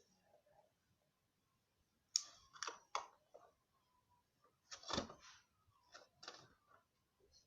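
Faint handling clicks and scrapes of a small plastic cosmetic container worked by hand while a little hole is poked into it: a cluster of sharp clicks about two seconds in, and more around five and six seconds.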